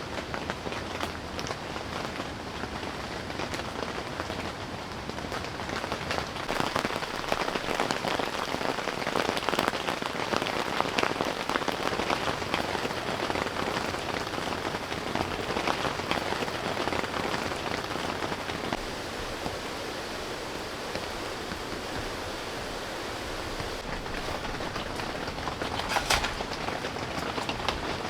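Steady rain, heavier from about six seconds in and easing again after about twelve. A short, sharp knock sounds about twenty-six seconds in.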